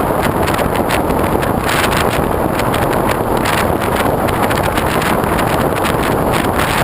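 Wind rushing over the microphone of a GoPro mounted on the wing of a radio-controlled foam airplane in flight, a loud steady rush that buffets slightly.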